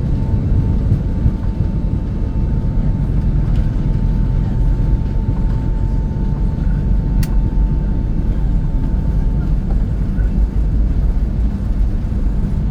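Airliner jet engines at takeoff thrust heard from inside the cabin during the takeoff roll: a loud, steady low rumble with a thin steady whine, as the cabin shakes and rattles on the runway. A single sharp click about seven seconds in.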